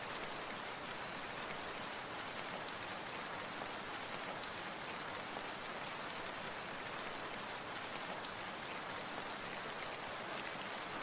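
Steady falling water, likely rain: an even, unbroken hiss with a dense, fine patter of drops.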